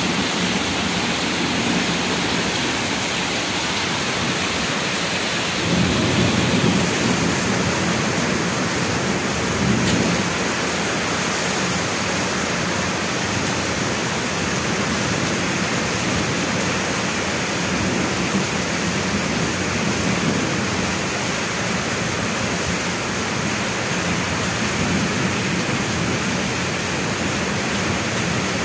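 Heavy rain falling at night, a steady dense hiss, with a deeper, louder swell about six seconds in and another near ten seconds.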